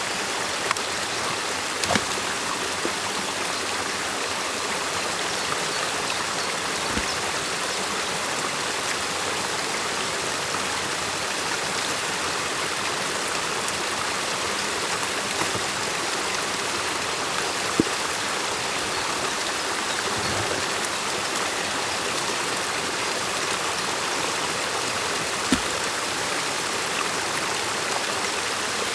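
Stream water rushing and splashing steadily at a beaver dam, with a few short sharp knocks spread through; the loudest comes a little past halfway.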